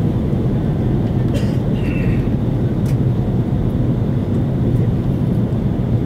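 Steady low roar of an Airbus A330-300's engines and rushing air, heard inside the passenger cabin during the descent to land. A couple of faint clicks sound a little past a second in and again near three seconds.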